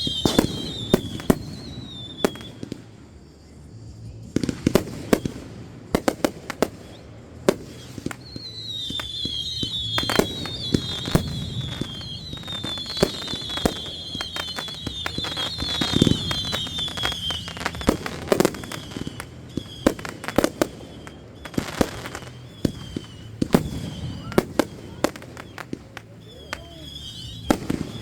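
Consumer fireworks going off: many sharp bangs and crackles in quick, irregular succession, with a high wavering whistle that comes and goes.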